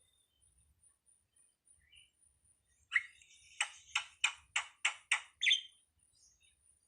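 A jalak (starling) calling. After a pause of a few seconds comes a quick run of about eight harsh notes, roughly three a second, ending on a higher note.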